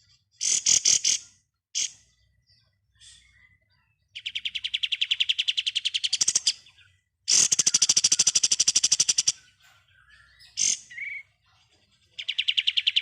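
Kapas tembak bird singing its 'ngebren' song: a few short chirps, then three long, fast, machine-gun-like rattling trills of about two seconds each, the last one starting near the end.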